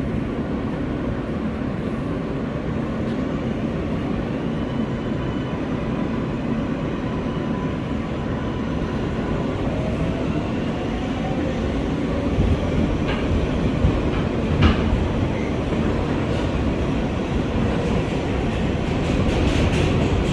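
R143 subway train running, heard from inside the car: a steady rumble of wheels on rail with a faint rising whine. A few sharp clacks come about two thirds of the way through, and the noise grows louder near the end.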